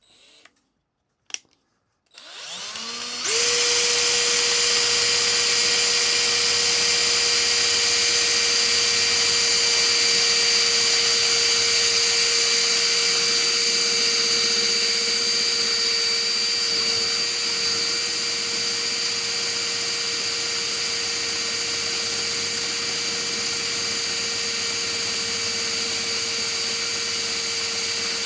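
Electric drill boring a hole of just over half an inch in the USB hub's case. After a couple of clicks, the motor starts about two seconds in, runs up to speed and holds a steady whine.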